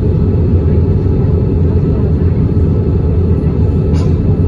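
Airbus A320 cabin noise from a window seat: a steady, loud low rumble of the engines and airflow, with a faint click about four seconds in.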